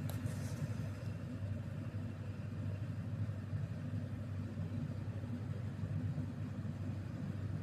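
Steady low drone of a vehicle's engine and road noise heard from inside the cabin while driving.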